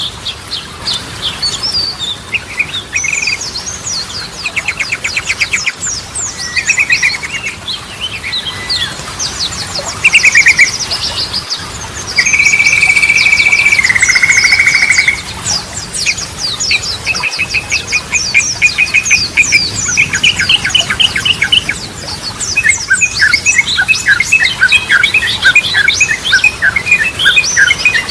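Yellow-vented bulbul (trucukan) singing in a fast, varied run of chattering trills and repeated whistled notes. About halfway through comes one long steady whistle that steps down to a lower pitch, the loudest part of the song.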